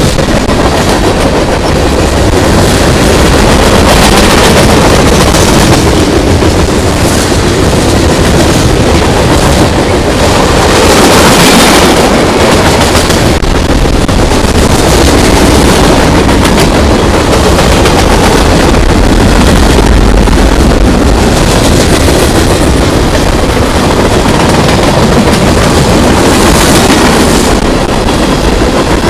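A long CSX freight train's cars rolling past at close range, steel wheels on the rails, loud and steady, with a dense run of rapid clicks and knocks.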